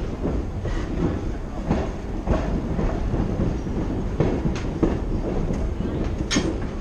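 Train wheels rolling over jointed track: a steady rumble with irregular clacks at the rail joints, and one brief high squeal about six seconds in.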